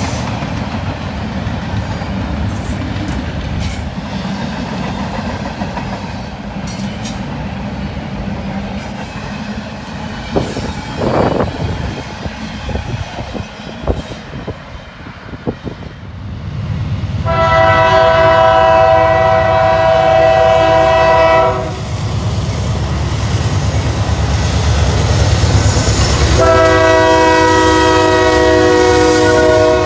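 A train rumbling by with clicking wheels, then its air horn sounding two long blasts of a chord of several notes: the first lasts about four seconds, starting a little past halfway, and the second begins near the end.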